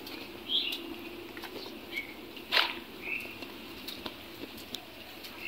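Short bird chirps, one every second or so, with one louder brief swish about two and a half seconds in, over a faint steady background hum.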